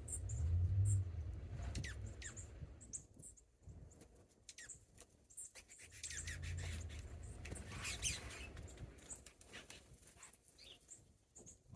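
Small wild birds chirping and calling: short high notes and quick sweeping chirps scattered throughout, busiest about two and eight seconds in, over a low rumble that comes and goes.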